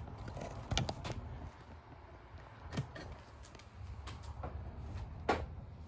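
A few scattered light clicks and knocks of handling noise over a low steady hum, the sharpest about a second in, near the middle and near the end.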